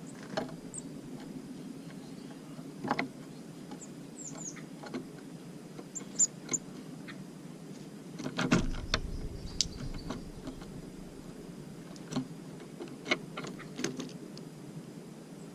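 Tits at a bird feeder: scattered sharp taps and knocks of the birds landing and pecking close to the microphone, the loudest about two-thirds of the way through, with a few short high chirps.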